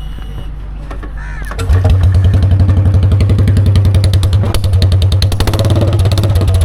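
Royal Enfield Bullet 350 single-cylinder engine running with its silencer removed, exhausting through the bare bend pipe. About a second and a half in it gets suddenly much louder and carries on with a fast, even thumping beat.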